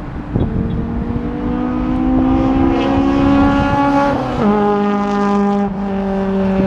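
A car engine accelerating hard, its pitch climbing, then dropping sharply with a gear change about four seconds in and holding roughly level afterwards.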